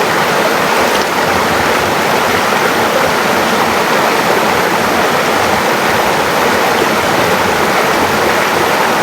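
River water rushing, a steady loud wash that does not let up.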